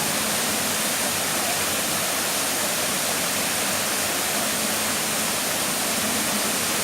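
Steady rush of a tall waterfall: an even, unbroken roar of falling water.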